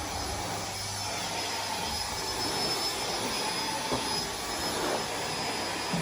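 Vacuum cleaner running steadily, a continuous whooshing drone with a thin high whine.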